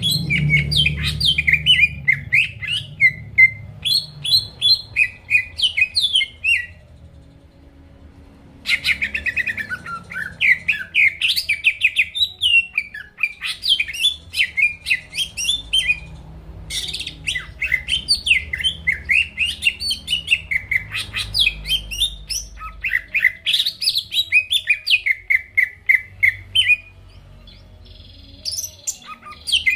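Greater green leafbird (cucak ijo) singing a fast, varied chattering song of quick rising and falling notes, in long phrases broken by two pauses of about two seconds.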